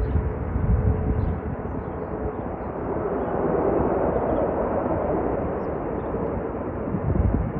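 Jet airliner taking off: a steady rushing, rumbling engine noise that swells in the middle, with low bumps of rumble near the start and near the end.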